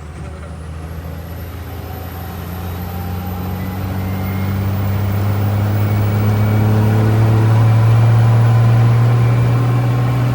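Heavy truck's engine running steadily at low revs, growing louder over about eight seconds and then easing off slightly.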